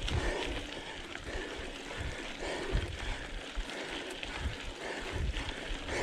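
Wind buffeting the camera microphone with irregular low rumbles, over the faint clicking and rattle of a mountain bike on a dirt trail.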